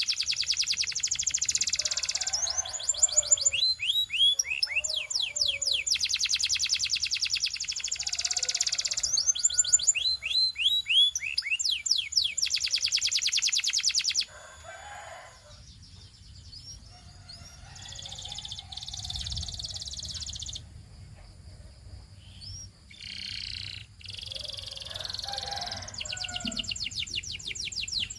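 Canary singing: fast rolling trills and rapid downward-sweeping whistled notes, loud for about the first half. After that the song turns quieter and sparser, and loud trills return near the end.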